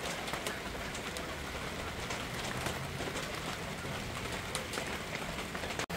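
Heavy rain falling steadily, an even hiss with scattered sharper taps of individual drops.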